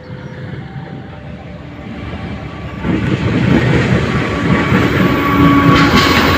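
Train running on the rails, a steady rumble and hiss that grows clearly louder about three seconds in.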